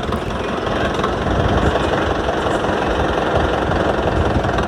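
Mahindra Yuvo 575 DI tractor's four-cylinder diesel engine running steadily through a newly fitted New Holland silencer, pulling a loaded trolley at about 1300–1400 rpm.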